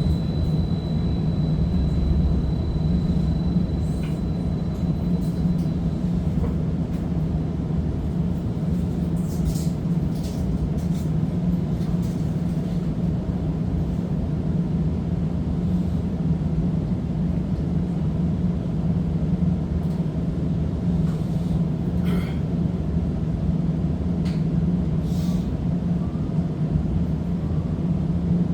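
Seattle First Hill Streetcar in motion, heard from inside the car: a steady low running rumble and hum. A thin high whine fades out about six seconds in, and a few short high-pitched noises come later.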